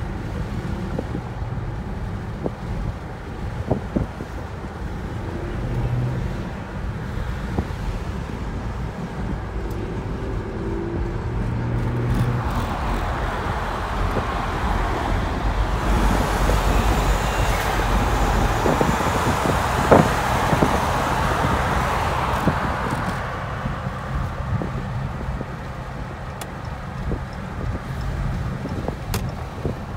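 Car driving on the road: steady low engine hum with tyre and road noise, swelling louder for about ten seconds in the middle.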